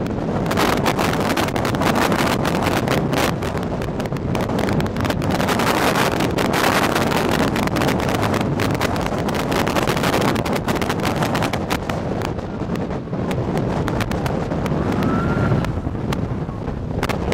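Gusty storm wind buffeting the microphone with a constant crackle, over a low vehicle rumble.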